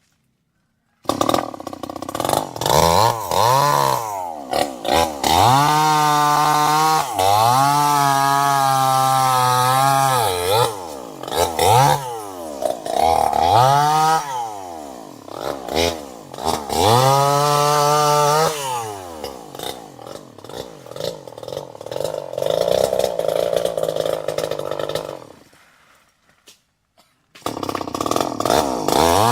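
Chainsaw engine revving up and down again and again, held at high revs for a few seconds at a time. It drops out to silence for about the first second and again for a couple of seconds near the end.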